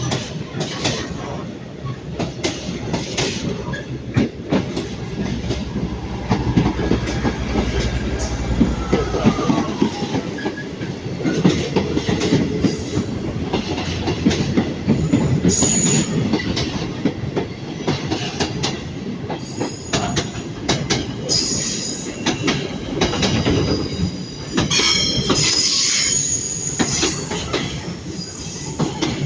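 Class 66 diesel freight locomotive and its wagons passing through. The locomotive's engine rumbles low for a few seconds early on, then wheels clatter rapidly over rail joints and points and squeal high on the curves, the squeal loudest in the second half.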